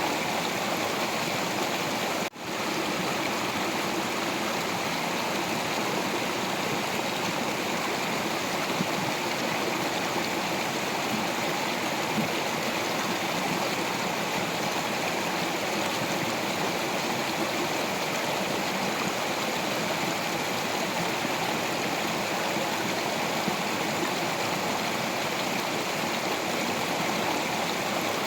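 Stream water rushing and splashing over rocks in a steady, even flow, briefly dropping out for an instant about two seconds in.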